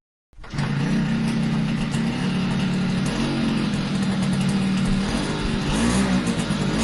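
Vehicle engine exhaust that starts after a brief gap and runs at a steady pitch, then is revved in short quick blips from about six seconds in.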